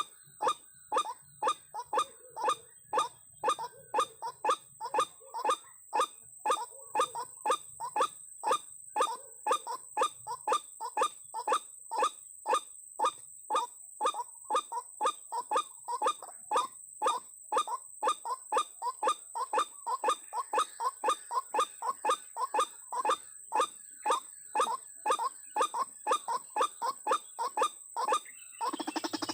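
White-breasted waterhen (ruak-ruak) calling: one short call repeated steadily about twice a second, then stopping abruptly near the end.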